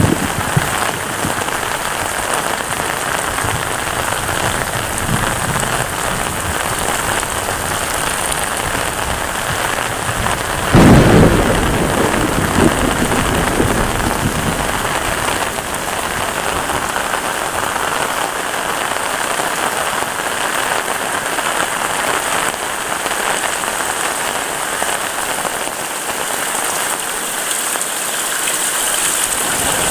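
Heavy rain falling steadily. About eleven seconds in, a loud low rumble rises suddenly and fades over a few seconds.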